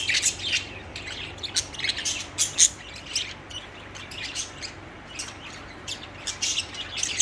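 Pet budgerigars chirping and warbling in quick, irregular high chirps, busier in the first few seconds and thinning out in the middle.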